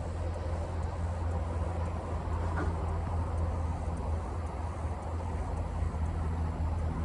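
A steady low mechanical hum, with a faint tick about two and a half seconds in.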